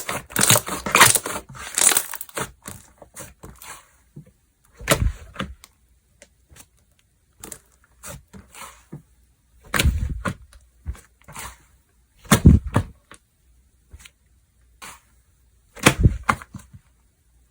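Hands playing with slime: a dense run of crisp crackling for the first two seconds or so, then scattered small clicks and four separate louder squeezes spaced a few seconds apart.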